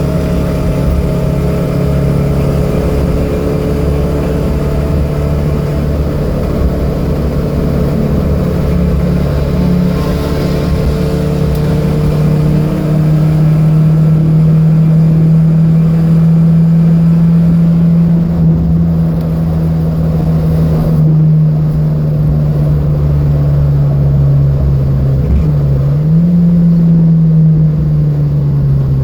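Datsun B210's four-cylinder engine running hard at steady high revs, its pitch climbing slowly and holding, with a brief dip and recovery in pitch near the end.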